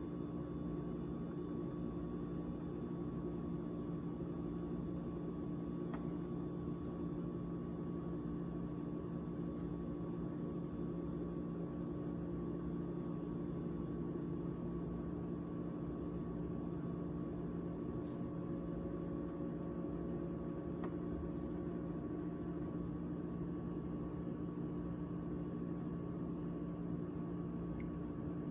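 GE top-freezer refrigerator running after its defrost heat cycle, a steady hum with a constant low tone and a fainter high one, broken by a few faint ticks.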